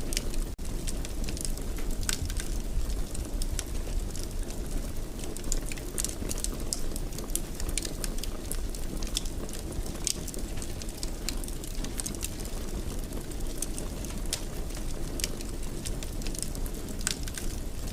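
Wood fire burning in a fireplace: irregular sharp crackles and pops scattered over a steady low rumble of the flames. There is a momentary dropout about half a second in.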